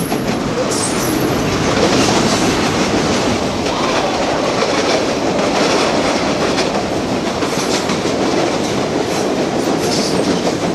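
Train cars rolling past on the track: a loud, steady rush of wheels on rail that keeps on without letting up.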